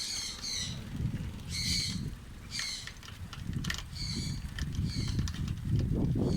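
Short high chirps of a bird, repeated about once a second, over the low rumble of wind on the microphone of a moving bicycle.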